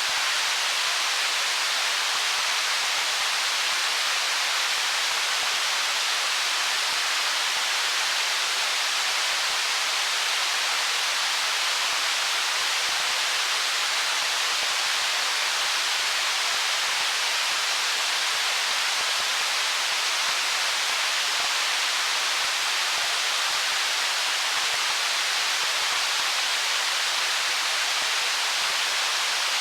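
A flowing stream rushing over stones, making a steady, even hiss with no distinct splashes or gurgles.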